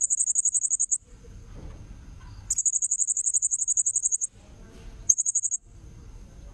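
Blue-crowned hanging parrot (serindit) calling in high, rapid trills, played as a bird-trapping lure call: three bursts, about a second, nearly two seconds and half a second long, over a faint steady high tone.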